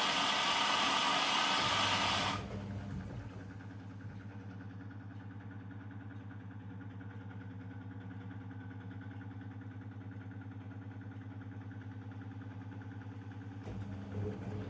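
Zanussi DL22 front-loading washing machine running a 90 °C wash: a loud rushing hiss cuts off about two seconds in, leaving a steady low motor hum with a fast, even pulse. Near the end the running gets louder and more uneven.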